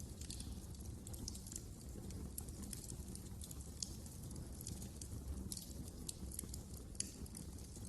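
Wood fire burning in a fireplace, crackling and popping: irregular sharp snaps scattered over a low steady rumble of the flames, with two louder pops, one about four seconds in and one near the end.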